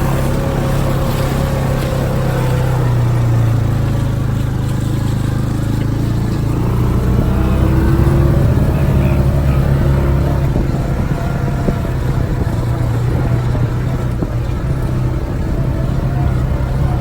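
A vehicle engine runs steadily with a low drone, slightly louder about halfway through.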